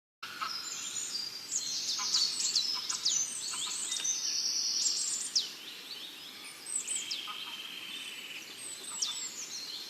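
Small songbirds chirping and singing, many short high calls overlapping, with two longer buzzy trills, one a little before halfway and a lower one later on.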